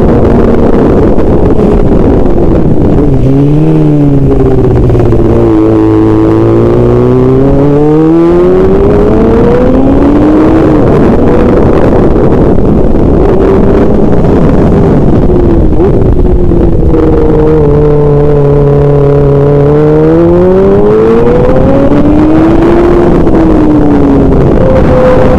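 A motor vehicle engine over a loud steady rush of wind and road noise. Its pitch twice drops as it slows, then climbs again as it picks up speed.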